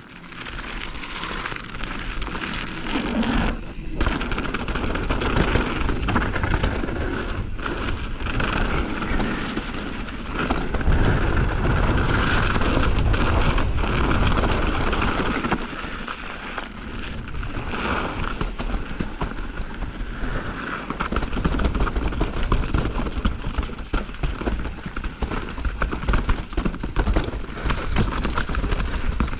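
Mountain bike ride recorded on an action camera: wind rumbling on the camera's microphone and tyres rolling over a dirt trail, with many small knocks and rattles from the bike.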